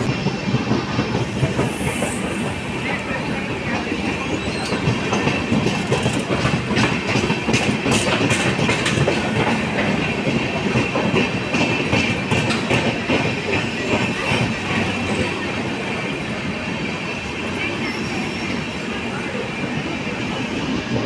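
Passenger train's coaches rolling along the platform as it pulls out, wheels clicking over the rail joints with some squealing, the clatter busiest in the middle.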